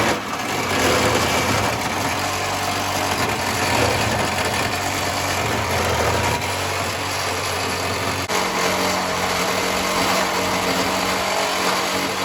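Power cut-off tool running and cutting through metal on the underside of a truck chassis. The motor's pitch steps up about eight seconds in, and the tool stops just after.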